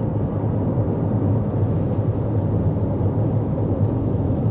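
Steady road noise of a 2024 Toyota Corolla Cross cruising at highway speed, heard inside the cabin: a constant low drone of tyres and drivetrain with an even rushing hiss above it.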